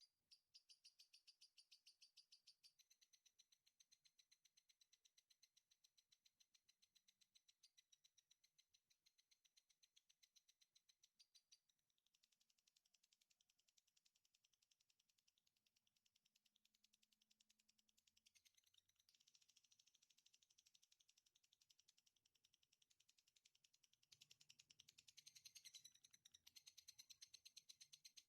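Songbird call on a masteran bird-song training recording: a faint, fast, even series of high chirps at about ten a second. It changes pattern about halfway through and becomes louder and busier near the end.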